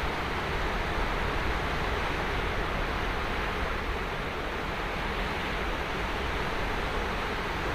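Ocean surf washing on a sandy beach: a steady, even wash of breaking waves with a low rumble, with no single wave standing out.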